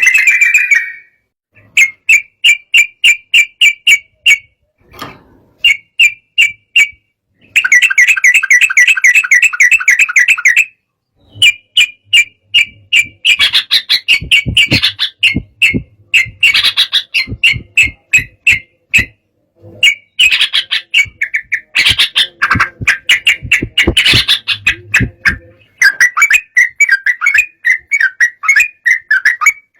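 Yellow-vented bulbul (trucukan) singing an agitated, fired-up song: rapid runs of chattering, whistled notes in bursts, broken by brief pauses.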